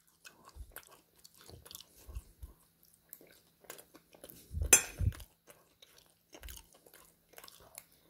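Close-up chewing of a mouthful of oven chips and spaghetti: a run of small irregular mouth clicks and soft thuds, with one louder smack a little past halfway.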